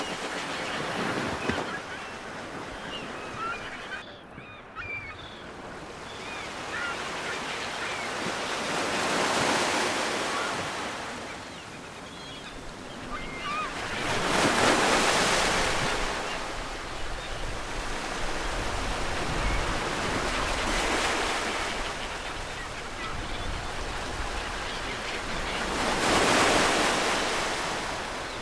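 Ocean surf: waves breaking and washing ashore in slow swells, one about every five to six seconds, with a few faint bird calls in the first few seconds.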